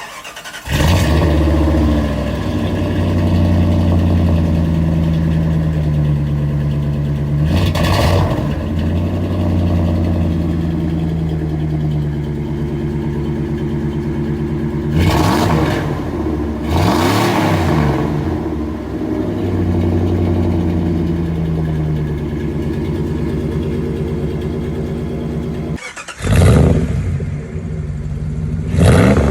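Jeep Grand Cherokee ZJ's 5.2-litre V8 with a straight-piped exhaust, starting up about a second in and then idling with a loud, lumpy exhaust note, revved sharply several times. Near the end a different recording of the same kind of engine gets two more quick revs.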